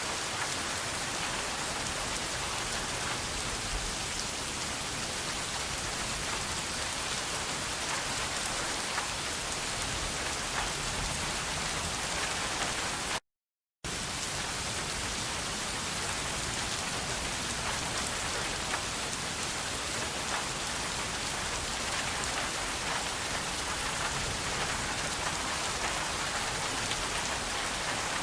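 Steady rain falling and pattering on surfaces, with many fine individual drop ticks. About halfway through, the sound cuts out completely for about half a second, then resumes.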